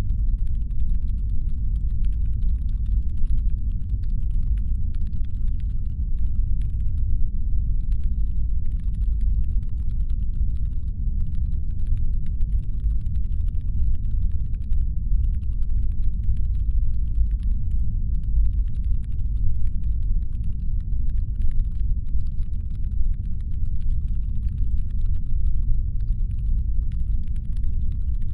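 Designed sci-fi spaceship ambience: steady deep brown noise, a low rumble standing in for the ship's engine hum, with a faint irregular patter of small clicks over it.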